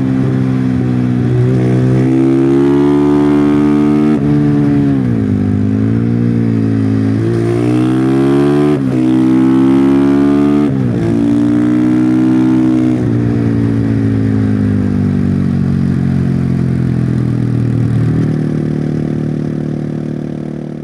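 Husqvarna FE501 single-cylinder four-stroke supermoto on its stock exhaust, revving up and dropping back several times as it accelerates and shifts through bends. From about two-thirds in the revs fall slowly and settle low, and the sound fades out at the end.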